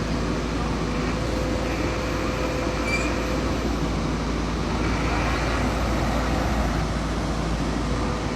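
Heavy construction machine's diesel engine running steadily at a constant pitch.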